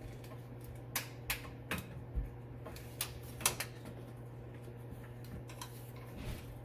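Irregular sharp clicks and taps, about eight of them spread over the first four seconds, from hand tools and metal parts being handled, over a steady low hum.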